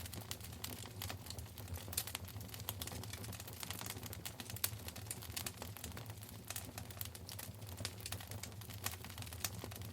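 Wood fire crackling in a fireplace: a dense run of irregular sharp pops and snaps over a steady low rumble of the burning fire.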